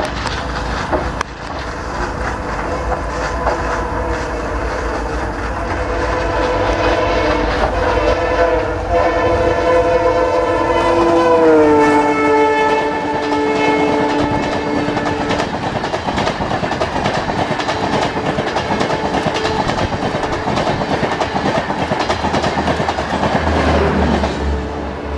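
Indian Railways Duronto Express passing at high speed: the locomotive's horn sounds a long multi-note blast that drops in pitch as the locomotive passes about eleven seconds in. The LHB coaches then run by with a rapid, continuous clatter of wheels on the rails.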